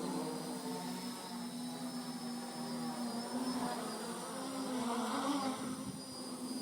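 Home-built quadcopter's brushless motors and propellers buzzing steadily, the pitch wavering slightly as the throttle is adjusted.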